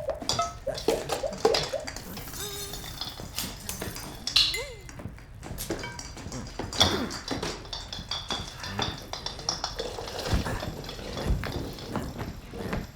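Irregular clinks, taps and knocks of hard objects being handled, with a short rising-and-falling squeak about four and a half seconds in.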